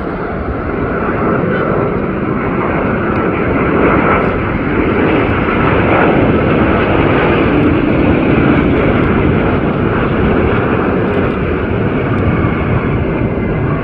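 Jet airliner on landing approach passing by, its engines giving a loud, steady rushing noise that swells toward the middle and eases slightly near the end, with a faint whine running through it.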